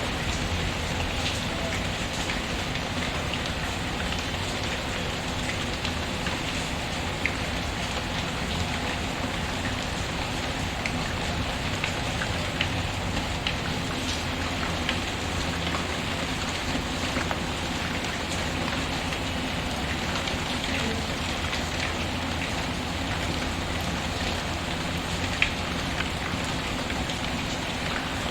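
Steady rain patter mixed with a fireplace's wood fire crackling, scattered small clicks and pops throughout, with a sharper pop about a quarter of the way in and another near the end.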